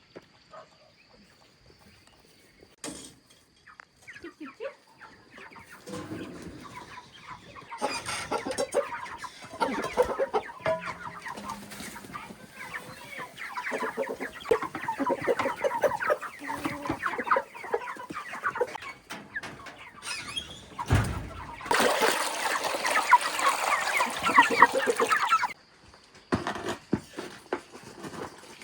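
Domestic chickens clucking, a flock calling in short, overlapping clucks that start a few seconds in and grow busiest and loudest just past the middle.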